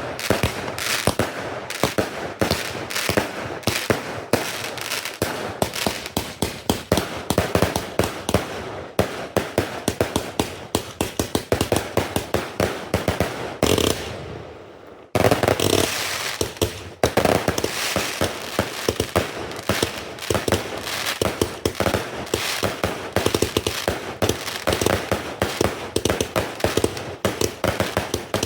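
Fireworks going off at close range: a dense, rapid string of sharp cracks and bangs, many a second, that dies down briefly about halfway through and then starts again suddenly.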